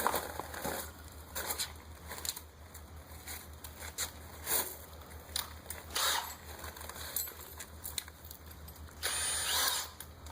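Metal hand tools and hardware being handled: scattered clicks and clinks, with a rougher scraping, rustling noise lasting about a second near the end.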